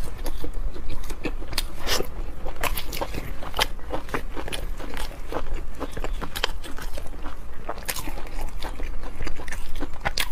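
Close-miked chewing of spicy braised pork hock: irregular wet smacks and sticky clicks of mouth and lips.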